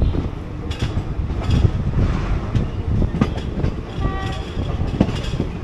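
Passenger train running, with a steady low rumble and irregular clicks of the wheels over the rails. A short high tone sounds about four seconds in.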